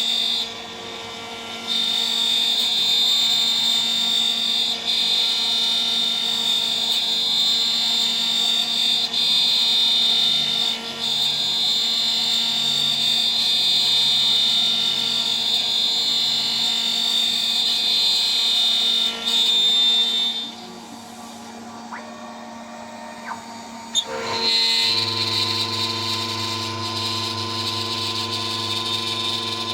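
CNC router spindle at 14000 RPM driving a 3 mm three-flute end mill, with a steady high-pitched milling whine. The cutting noise drops away about twenty seconds in, leaving a quieter hum. After a click about 24 s in, a different steady machine tone with a low hum takes over.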